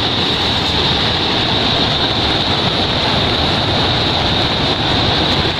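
Steady, loud rushing noise with a constant high-pitched whine over it, unbroken throughout.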